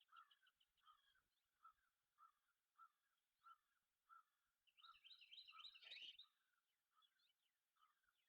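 Faint outdoor animal calls: a short chirp repeated about every half second, joined about five seconds in by a brief burst of higher, faster chirping.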